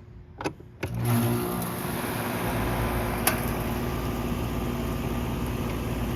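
A 2013 Carrier Comfort air conditioner's outdoor condensing unit starting up. Two clicks, then about a second in the compressor and condenser fan come on with a steady hum and rushing air. The low rumble grows stronger about two seconds later as the fan comes up to speed.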